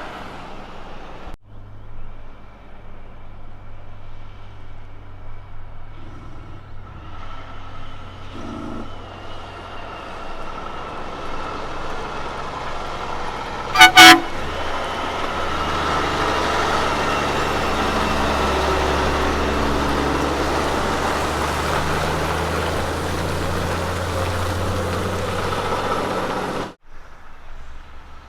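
Road train's diesel engine drone growing louder as it approaches and passes, with a quick, very loud double toot of the truck's horn about halfway through.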